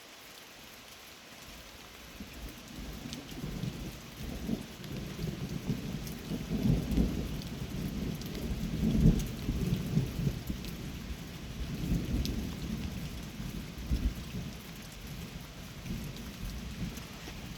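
Steady rain falling, with a long roll of thunder that builds a couple of seconds in, peaks about halfway through and rumbles on in waves.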